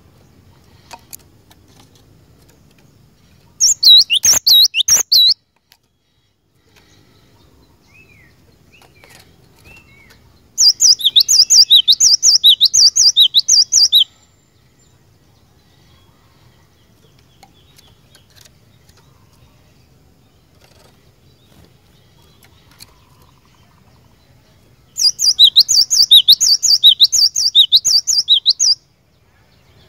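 Cinereous tit (glatik batu) singing in three bouts of rapid, repeated high whistled notes, each note sweeping downward: a short bout about four seconds in, a longer one about eleven seconds in, and another near the end.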